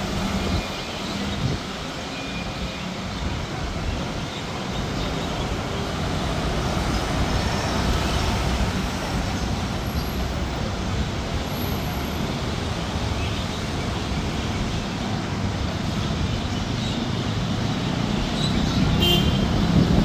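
Steady road traffic on a busy city street: vehicle engines and tyre noise as a continuous rumble that swells gradually, with a few faint, brief high chirps.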